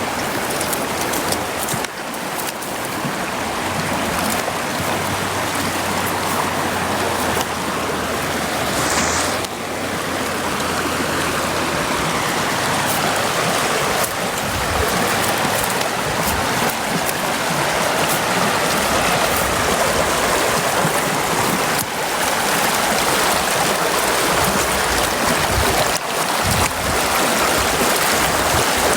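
Brook water rushing steadily.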